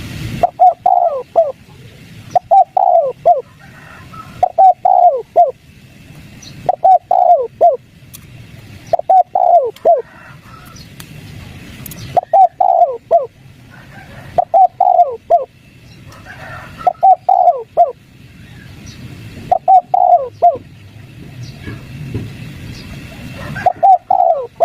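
Spotted dove cooing over and over in the three-note 'kuk 3' style: about ten short phrases of falling coos, one roughly every two seconds, with a low background rumble.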